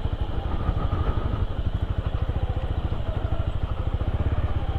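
Motorcycle engine running at steady, low revs on a dirt trail, a rapid even pulsing throb.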